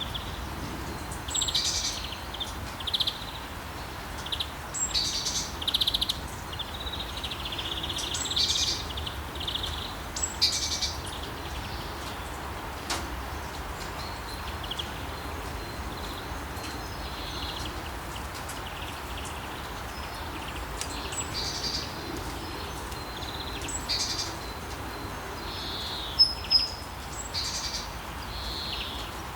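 Steady rain hiss with songbirds chirping and calling over it in short repeated phrases, busiest in the first ten seconds and again near the end.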